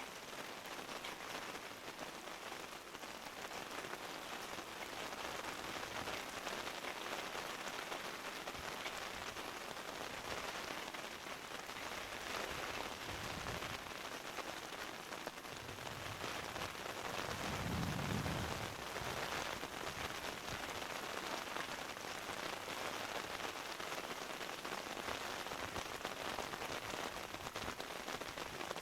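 Steady rain falling and pattering on surfaces. About two-thirds of the way through, a brief low rumble swells and fades under the rain.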